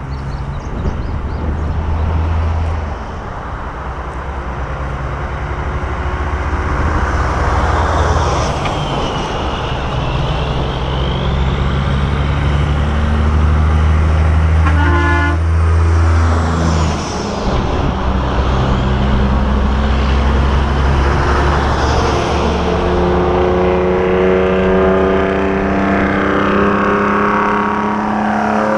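Semi-trucks rolling past in a convoy with diesel engines running, sounding long blasts on their air horns. Several held horn tones overlap, and a richer multi-tone horn sounds near the end.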